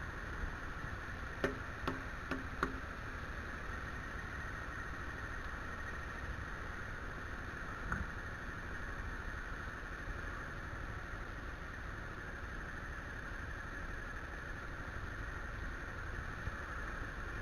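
Motorcycle on the move heard from a helmet-mounted camera: a steady muffled hum of engine and wind, with a few small clicks in the first three seconds.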